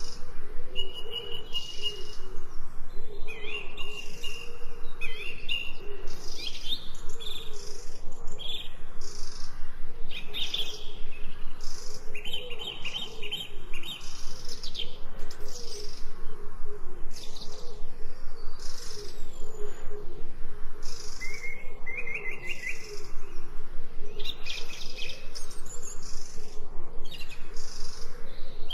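Wild birds chirping and singing, many short repeated chirps and trills overlapping, with a lower wavering warble running underneath.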